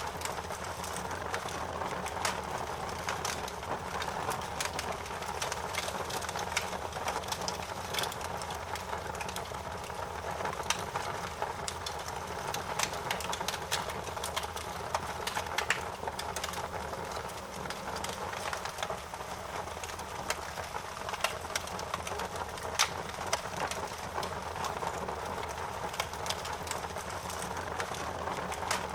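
Fire crackling: irregular sharp pops and snaps scattered over a steady hissing, rumbling bed of noise.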